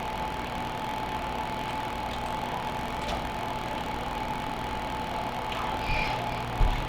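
Steady mechanical hum with a faint constant whine, a few light clicks, and a short low thump near the end.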